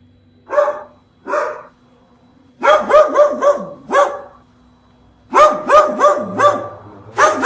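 A dog barking: two single barks, then three quick runs of several barks in a row.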